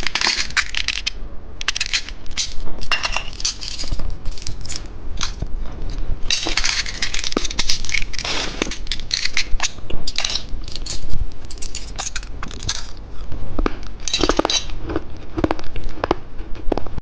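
Hard candy being crunched and chewed close to the microphone: a dense, irregular run of crisp cracks and clicks.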